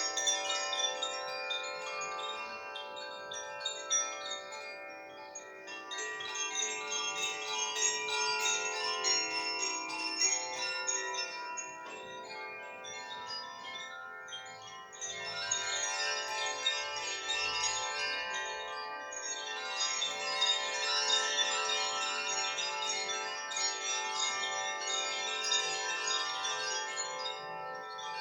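Koshi chimes, bamboo resonance tubes with tuned metal rods struck by an inner clapper, ringing continuously. Many light strikes leave clear, overlapping tones that sustain into a dense shimmer; it thins a little past the middle, then fills out again.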